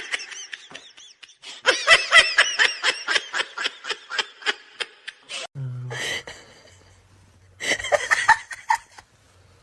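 High-pitched giggling laughter: a quick run of short laughs for a few seconds, then another short burst near the end.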